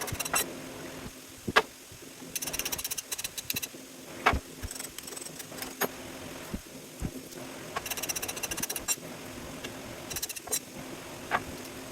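Scrap water pumps and motors being taken apart with tools: several bursts of rapid clicking, each about a second long, and single sharp metal knocks, over a faint steady hum.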